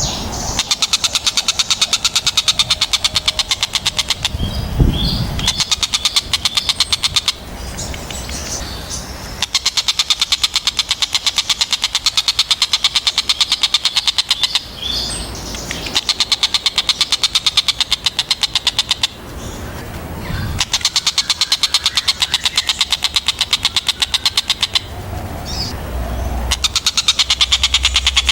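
Stork-billed kingfisher (tengkek buto) giving long bouts of rapid, sharply repeated chattering calls, each bout lasting several seconds with short pauses between. A low rumble sounds underneath twice, about five seconds in and again near the end.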